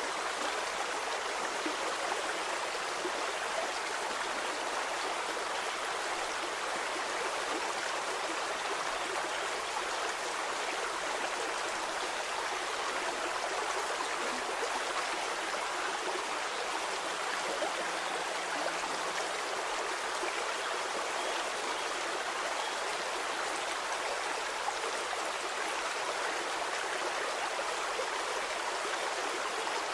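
A stream flowing steadily: a constant rush and babble of water, bright and hissy, with little deep rumble.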